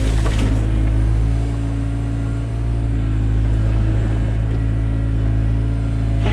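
Takeuchi TB175 excavator's diesel engine running steadily with a low, even hum.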